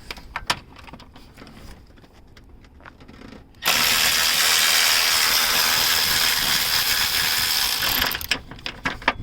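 Light metallic clicks of bolts being handled, then a hand-held power tool runs steadily for about four and a half seconds from around three and a half seconds in, driving an engine-mount bolt, and stops.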